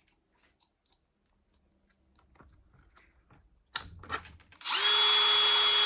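Handheld power driver running at a steady speed for about a second and a half near the end, driving a screw back into an RC truck's front end. A few faint clicks of handling parts come before it.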